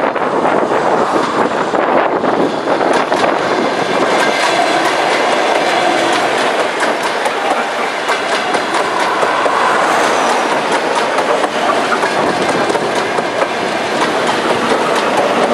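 Electric multiple-unit suburban train running past at close range: a continuous loud rush of running noise, with the wheels clicking rapidly over the rail joints.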